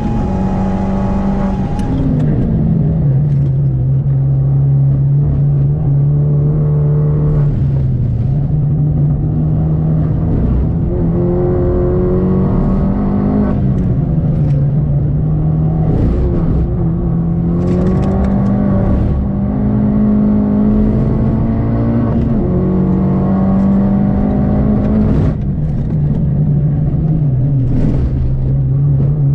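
Mini Cooper S R56's 1.6-litre turbocharged four-cylinder engine, heard from inside the cabin while driven hard on track, over steady tyre and road noise. The engine note drops sharply about two seconds in as the car slows from high speed, then rises and falls repeatedly through the corners.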